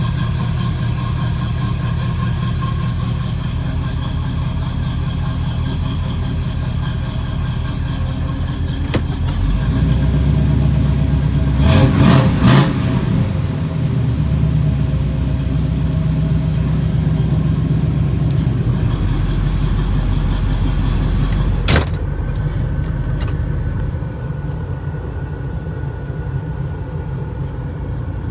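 The carbureted engine of a 1984 Pontiac Grand Prix idling steadily while its carburetor idle is being adjusted. It runs louder and deeper for a few seconds around the middle. A few knocks sound near the middle, and one sharp knock comes about two-thirds of the way through.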